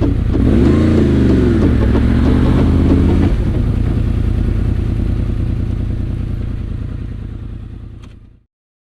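Motorcycle engine running on the road, its pitch rising and falling in the first few seconds, then steady, fading out to silence near the end.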